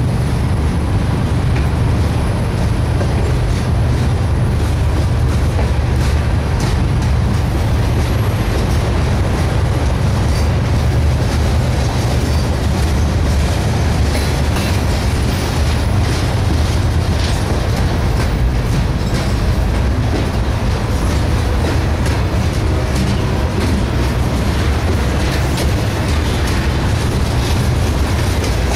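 Loaded freight train of covered hopper cars rolling slowly past at close range. The steel wheels on the rails give a steady heavy rumble, with light clicking as the wheels pass over rail joints.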